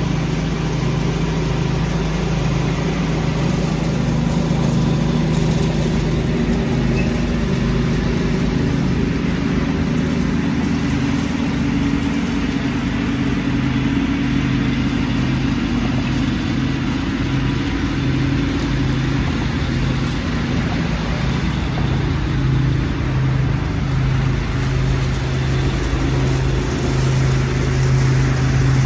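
Small gasoline engine of leaf-vacuuming lawn equipment running steadily under load, with the rush of the vacuum's airflow.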